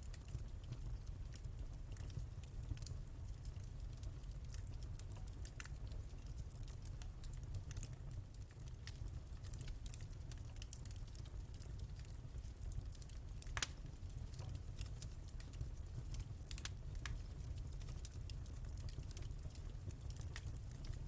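Wood fire crackling in a fireplace: frequent small irregular snaps over a steady low rumble, with a few louder pops, the sharpest about two-thirds of the way through.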